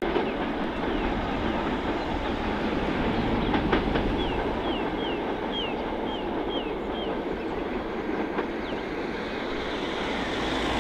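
Passenger train running away along the track, its wheels making a steady rumble and clatter on the rails. About four seconds in, seven short high chirps falling in pitch sound over it.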